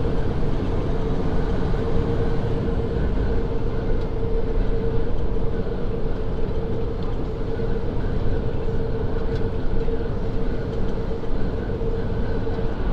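Steady low rumble of a truck heard from inside the cab, with a steady hum running through it.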